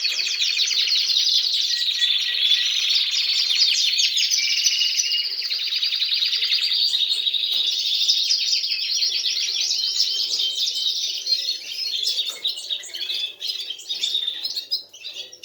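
Canaries singing: a continuous, fast trilling song with rolls and short whistled notes, becoming more broken in the last few seconds.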